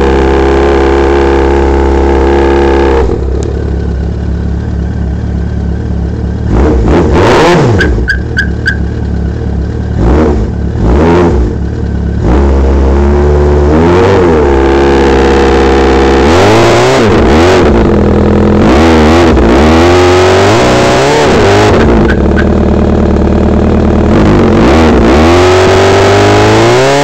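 1999 Suzuki Katana 600's inline-four engine through a custom exhaust pipe, running steadily, then settling lower about three seconds in. It is then revved again and again, the pitch climbing and falling with each blip.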